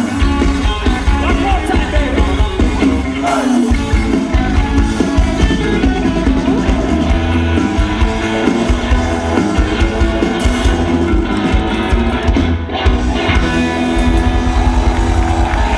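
Live pop-rock band playing, with a singer's voice over guitar, bass and drums, loud and continuous.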